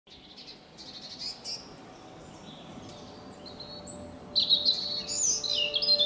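Birdsong: assorted short chirps and trilled phrases, sparse at first, then louder and busier from about four seconds in.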